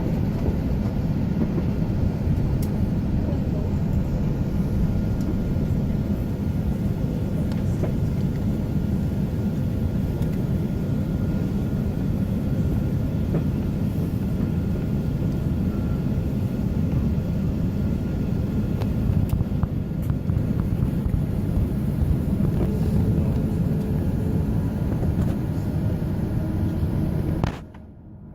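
Airbus A380 heard from inside the cabin while taxiing: a steady low rumble of the engines and rolling gear, with a faint steady whine above it. The sound drops away abruptly for about a second near the end.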